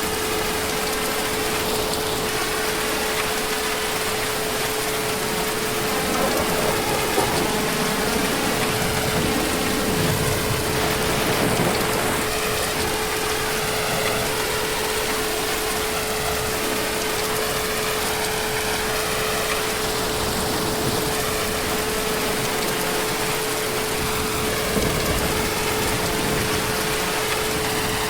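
Heavy rain falling steadily in a dense, even hiss, with a steady single-pitched hum running underneath.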